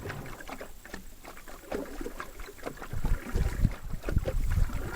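Canoe on the water: a paddle splashing through the water with small knocks against the hull. Low rumbling thumps come in from about three seconds in.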